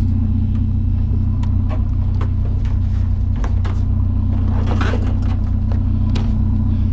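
Vehicle engine idling steadily, with scattered light clicks and knocks over it.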